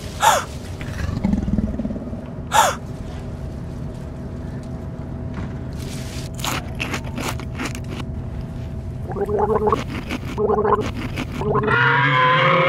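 Sound-effect track over a low rumble: two sharp falling swooshes in the first few seconds, a scatter of clicks, short pitched cries, then a long warbling animal-like cry near the end.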